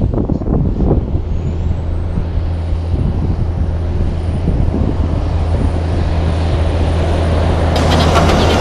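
Heavy diesel road train running on the highway, a steady, loud, deep engine drone with a constant low hum. A brighter, noisier sound builds up near the end.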